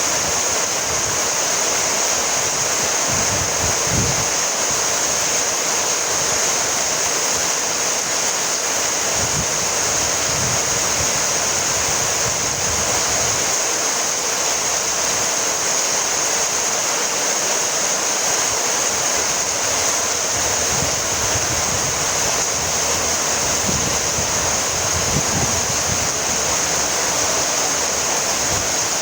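Steady rainfall: an even, unbroken hiss of rain with no breaks or changes.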